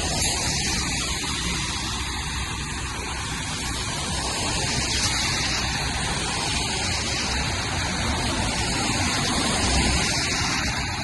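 Steady street noise on a wet day: the rush of car traffic with the hiss of rain and tyres on wet road, swelling briefly near the end.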